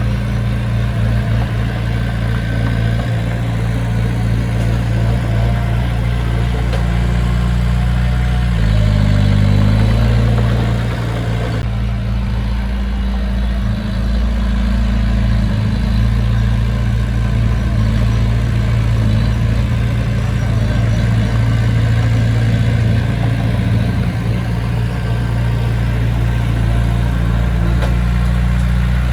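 Heavy machine's diesel engine running steadily, revving up in pitch and loudness for a moment about nine seconds in, then settling back.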